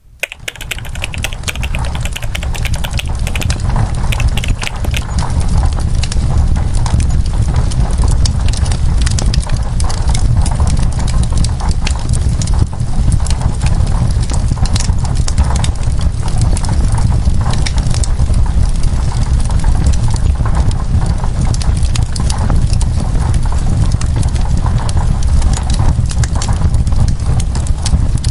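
Wood fire crackling in a fireplace: many irregular sharp pops and snaps over a steady low rumble. It fades in over the first few seconds.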